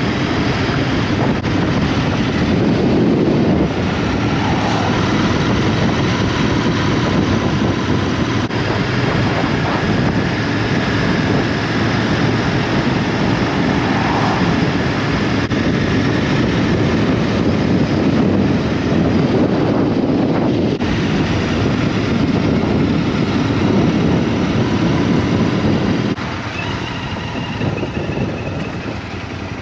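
Motorbike on the move: steady engine and road noise with wind buffeting the microphone. It gets somewhat quieter near the end.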